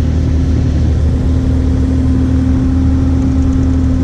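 Kubota 040 compact excavator's diesel engine running steadily, with a steady higher hum held over the drone.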